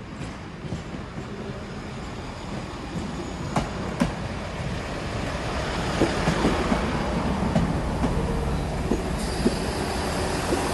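Class 166 diesel multiple unit running through the station, growing steadily louder as it comes closer. Its wheels click over rail joints and points, and a high steady wheel squeal joins near the end.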